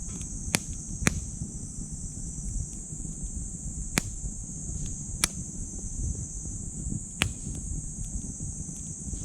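Wood burning in a small titanium wood stove, with sharp crackles and pops about five times, over a low rumble of flame. A steady, high-pitched insect chorus runs beneath it.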